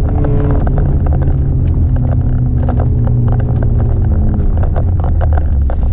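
A Mercedes-Benz C180 W202's 1.8-litre four-cylinder engine running hard at steady high revs, heard from inside the cabin, its pitch easing slightly midway. Many short clicks run through it, gravel striking the underside of the car on a loose gravel road.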